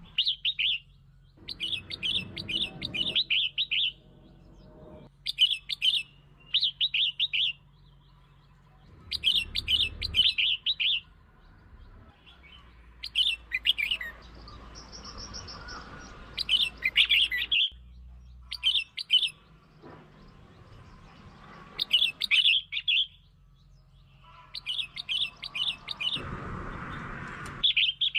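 Red-whiskered bulbul singing: short phrases of quick, bright chirping notes, each about a second long, repeated every two to three seconds. This is the song played as a lure to provoke and attract other bulbuls.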